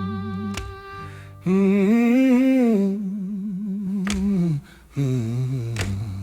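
Slow acoustic blues: a wordless hummed vocal line with vibrato in two phrases, over sparse guitar with a few sharp plucked notes and a low held bass tone.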